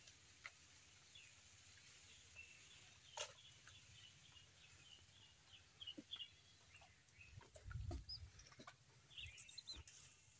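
Near silence with faint, scattered bird calls and a few soft clicks and knocks; a low thump comes about three quarters of the way in.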